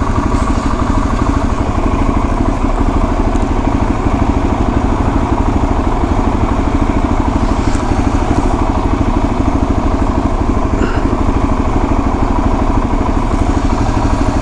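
Suzuki DR-Z400S dual-sport motorcycle's single-cylinder four-stroke engine running steadily, with a fast, even pulse.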